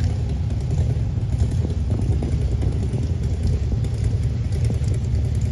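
LS-swapped 1981 Chevy C10's V8 engine running with a steady low rumble.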